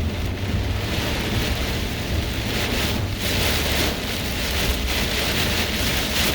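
Heavy rain and strong gusting wind in a severe thunderstorm, the wind buffeting the microphone with a low rumble under a steady hiss of rain that swells and eases.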